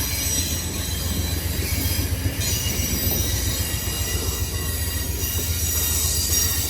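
Amtrak Coast Starlight passenger train rolling steadily past at close range: a continuous low rumble from the cars, with high-pitched squealing from the wheels on the rails.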